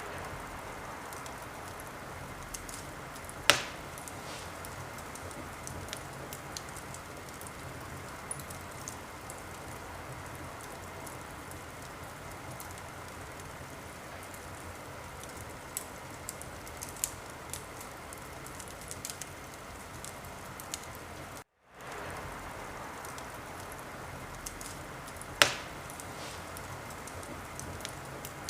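Wood fire burning in a fireplace: a steady hiss with scattered small crackles and two sharp pops, the first a few seconds in and the second near the end. About two-thirds of the way in the sound cuts out for a moment and fades back in.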